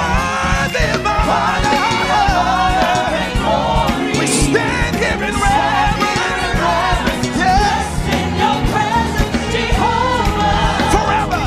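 Gospel worship music: a live band with singers, a wavering sung melody over a sustained bass.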